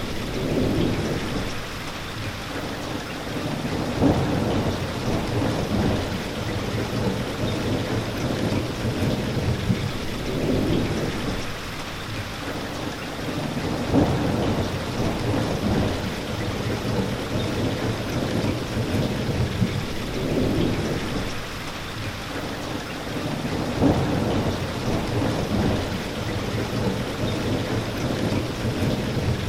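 Steady rain falling, with low rumbles that swell and fade about every ten seconds in a repeating pattern, each with a short sharp peak, like rolling thunder.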